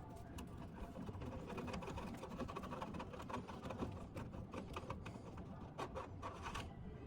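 Faint, irregular small clicks and rattles of hand tools working a screw in a car door, fading out near the end.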